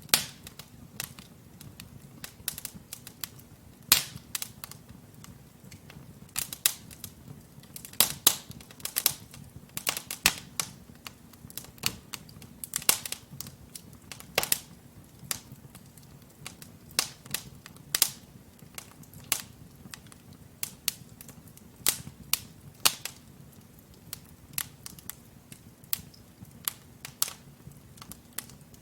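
Wood fire burning logs in a fireplace, crackling with irregular sharp pops and snaps over a low steady rumble of the flames.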